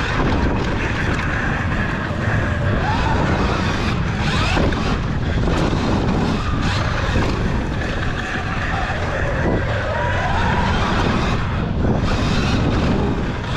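Sur-Ron electric dirt bike racing on a dirt track: steady rushing wind noise with a faint whine that rises and falls now and then.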